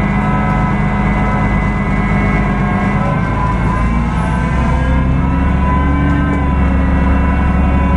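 Cummins ISB6.7 diesel engine of a Solaris Urbino 18 hybrid articulated bus running under way, with a steady high whine over the engine note. The low rumble grows about three seconds in and the pitch drifts slightly.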